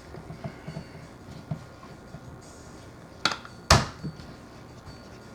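Objects being handled and set down: several light knocks, then two sharp thunks close together a little over three seconds in, the second the loudest.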